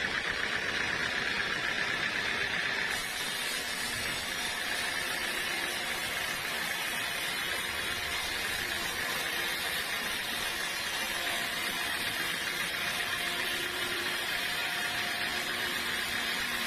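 Sawmill saw running steadily with a hissing, noisy sound, which changes abruptly about three seconds in.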